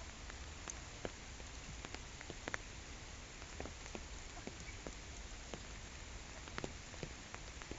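Steady rain falling on a pond, a constant hiss with separate drops plinking several times a second.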